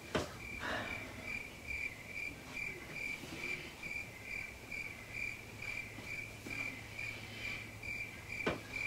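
Cricket chirping steadily at one high pitch, about two chirps a second, over a faint hum. It starts and stops abruptly with a click at each end.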